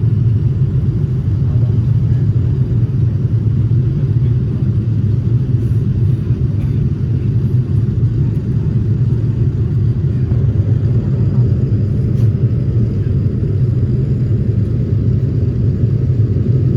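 Airliner cabin noise: a steady low rumble of engines and airflow.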